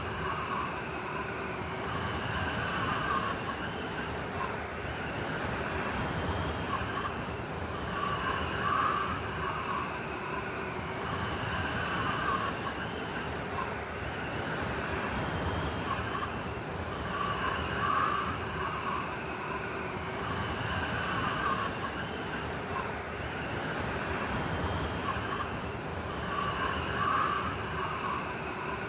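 Blizzard wind blowing steadily, a rushing noise with whistling howls that swell about every nine seconds.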